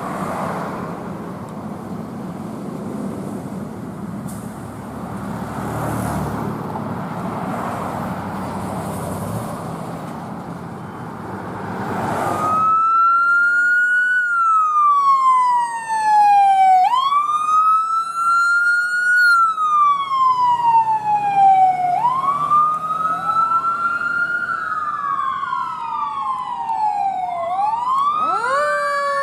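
Heavy road and engine noise from passing traffic, then, about twelve seconds in, an emergency vehicle's siren sweeping up and down in a repeating wail. Near the end a second siren tone overlaps the first.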